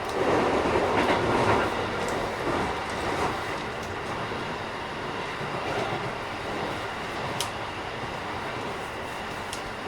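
Keikyu 1000 series electric train (Mitsubishi IGBT VVVF) running at speed, a steady rumble of wheels on rail with a few light clicks. The rush is louder over roughly the first two seconds, then it settles. This set is a little noisier than others of its class.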